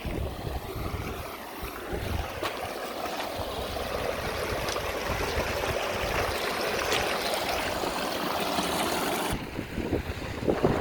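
Rushing water, a steady even hiss that grows a little fuller toward the middle, then its upper part cuts off sharply about nine seconds in.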